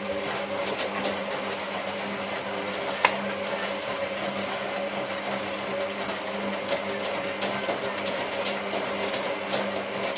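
Hotpoint 9534A washing machine running during its rinse stage: a steady motor hum with rushing water and scattered light clicks, cutting off suddenly at the end.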